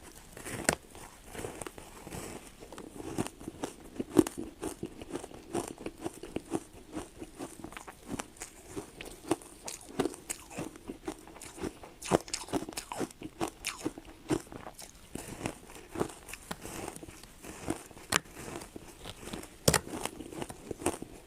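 Ice being bitten and chewed: a continuous run of crisp crunches and cracks, several a second, with sharper snaps about four seconds in and again near the end.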